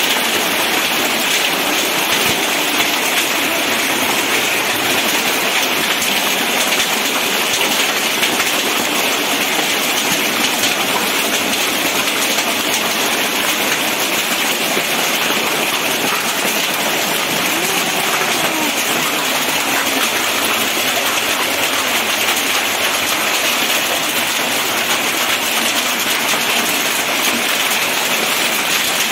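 Heavy rain pouring onto a concrete yard, a steady, unbroken hiss of drops splashing on the wet ground.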